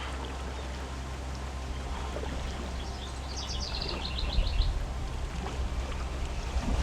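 Steady low rushing outdoor background, growing a little louder and rougher after about four seconds, with a bird singing a quick run of high repeated notes about three seconds in.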